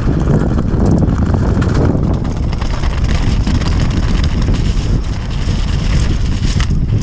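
Steady wind noise buffeting the camera microphone as a full-suspension mountain bike rolls fast down a wet, rough trail, with short clicks and rattles from the bike and tyres over the ground.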